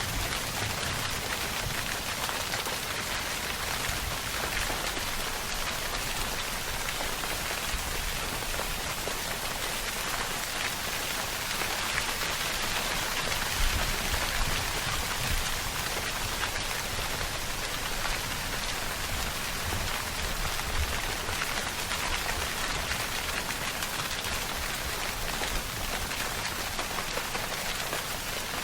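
Steady rainfall, a dense patter of drops hitting a surface with an even hiss and no thunder.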